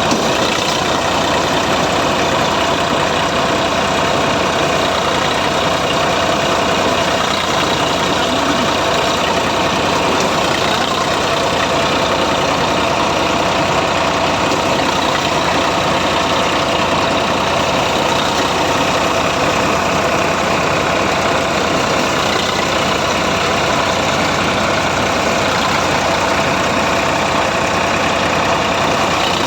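Diesel engine of a tractor backhoe loader running steadily.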